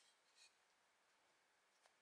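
Near silence, with one faint, brief scratch about half a second in.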